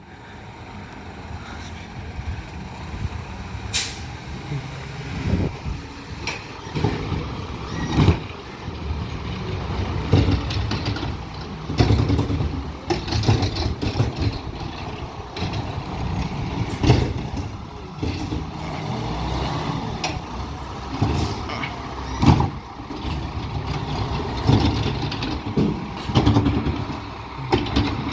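Peterbilt 520 garbage truck with a McNeilus ZR automated side-loader body working a recycling route: the engine runs and revs steadily, and sudden bangs and clatter come about every four to five seconds as the loader handles and dumps carts.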